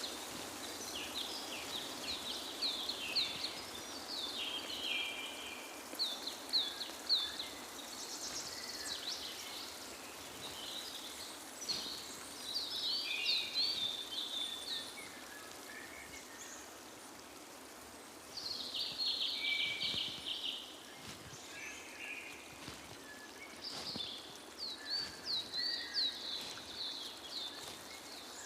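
Several wild birds singing, with repeated short, high chirps and quick sweeping notes in bursts, over a steady background hiss; the song thins out briefly about two-thirds of the way through.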